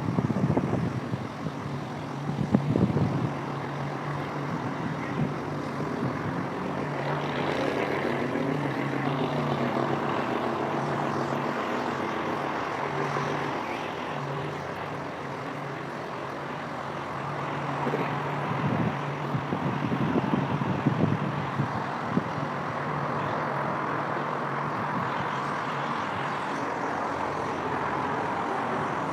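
Road traffic: a steady hum of passing vehicle engines, with one vehicle's pitch sweeping past about a quarter of the way in.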